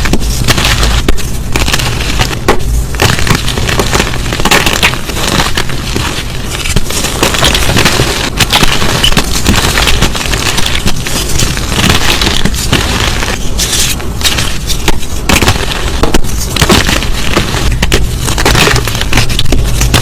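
Dense, continuous crunching and crackling: many sharp cracks in quick succession as brittle material is crushed.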